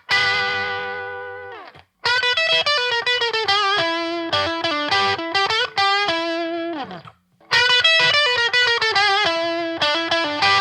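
Electric guitar played through an Aion FX Corona overdrive pedal, a DIY clone of the Boss OD-1, with a mildly distorted tone. A held chord rings and slides down, then two quick riff phrases of picked notes follow, the first also ending in a slide down with a short break before the second.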